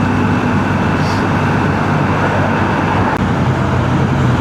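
BMW R1250GS boxer-twin engine running steadily at cruising speed, with wind and road noise on the rider's microphone.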